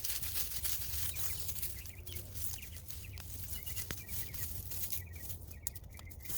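Irregular rustling and scraping of soil and plant stems being dug through to turn up potatoes. Small birds chirp in short runs now and then behind it.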